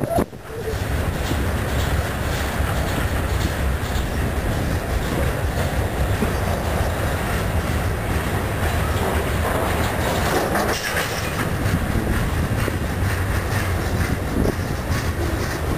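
Freight train cars rolling steadily past at close range: a continuous low rumble of wheels on rail, with repeated clicks as the wheels cross rail joints.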